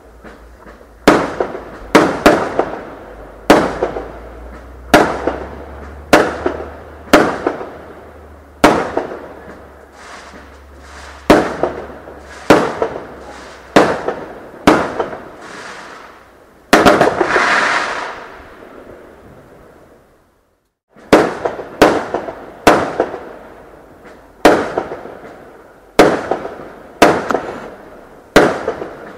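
Fireworks going off in a quick series of sharp bangs, about one a second, each trailing off in a fading echo. About two-thirds of the way in, a longer hissing crackle lasts about two seconds, then the sound cuts out for about a second before the bangs resume.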